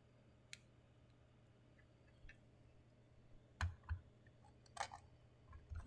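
Scattered faint clicks and knocks of small plastic figure parts being handled and fitted together, a few single taps and a short cluster of clicks near the end.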